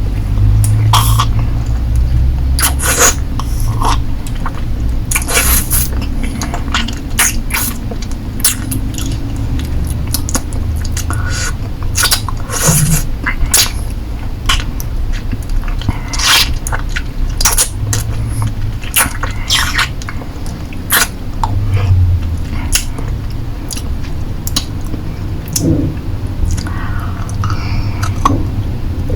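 Wet mouth sounds of a lollipop being licked and sucked close to the microphone: irregular sharp clicks and smacks of lips and tongue on the hard candy.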